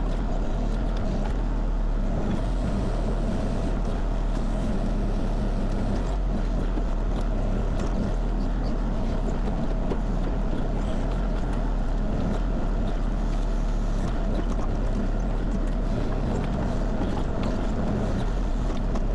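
Kubota KX040 compact excavator's diesel engine running steadily with no let-up.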